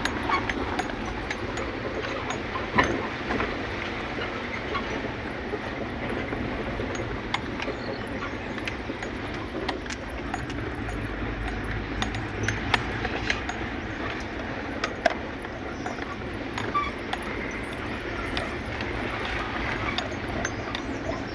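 Steady rumble of a moving vehicle, with frequent small clicks and rattles on top.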